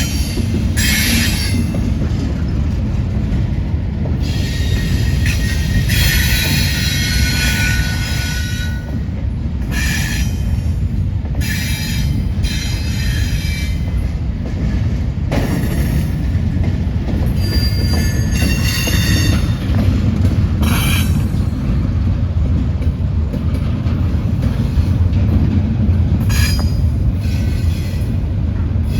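Freight train cars rolling past: a steady low rumble of wheels on rails, broken by high-pitched wheel squeals that come and go every few seconds.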